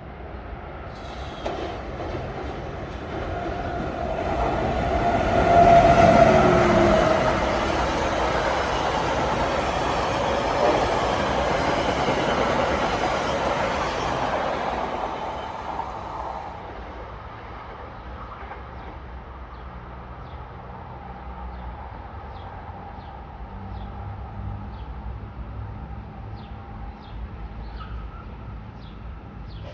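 A Metro-North commuter train passing at speed. Its noise builds over a few seconds and peaks about six seconds in, with a tone that drops in pitch as it goes by. It runs steadily for about ten seconds, then fades away after about fifteen seconds.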